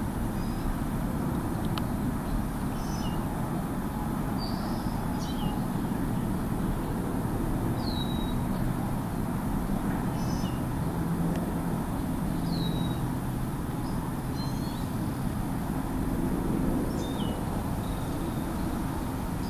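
Small birds giving short high chirps that drop in pitch, every second or two and often in pairs, over a steady low background rumble.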